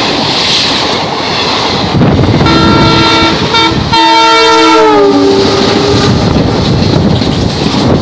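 Passenger coaches of an Indian Railways express train rushing past at speed with wheel clatter. Then an approaching diesel locomotive sounds its multi-tone horn in a few blasts for about three seconds, the last falling in pitch as it passes. The noise of its coaches going by follows.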